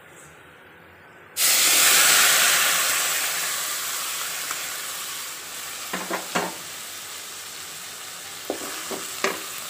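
Boiled, wet beetroot pieces hitting hot oil in a metal kadai: a sudden loud sizzle starts about a second in and slowly dies down to a steady frying hiss. A few light metal clinks sound near the end.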